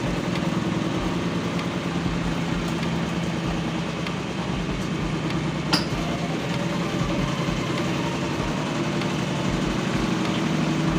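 Steady mechanical hum of a running motor, with one sharp click about halfway through.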